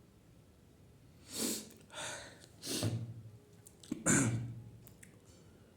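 A man's breathing and sniffing: four short, breathy sounds about a second apart, the last two carrying a brief low voiced grunt.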